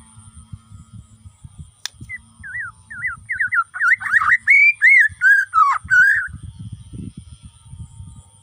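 A Bornean white-rumped shama sings a burst of quick, clear whistled notes, each sliding up or down, lasting about four seconds and growing louder toward the middle. A sharp click comes just before the song, with a low rumble underneath throughout.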